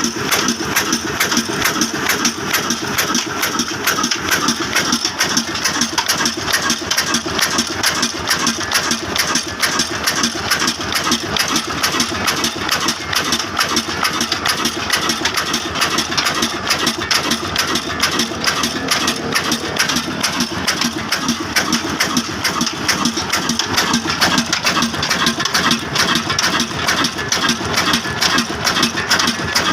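Heavy Hornsby-type black diesel engine running steadily, driving a small rice mill, with a fast, even clattering beat and no change in speed.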